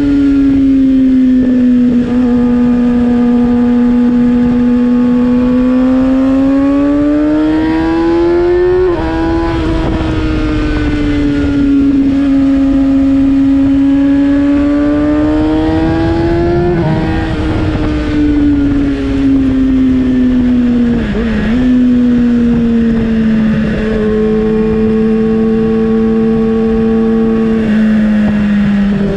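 Kawasaki ZX-6R's 636 cc inline-four running through an M4 GP19 slip-on exhaust while riding at a steady pace. The engine note swells and eases with the throttle and changes pitch suddenly at about nine and seventeen seconds in, over a low rumble.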